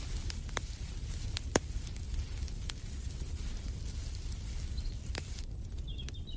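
Wood fire in a fireplace crackling, with sharp irregular pops over a low steady rumble; the loudest pop comes about a second and a half in. A bird chirps faintly a few times near the end.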